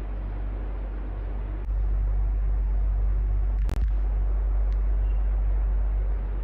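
Electric fan running steadily: an even whir over a low hum. It steps up in level a little under two seconds in and eases back near the end, with a brief click and dropout near the middle.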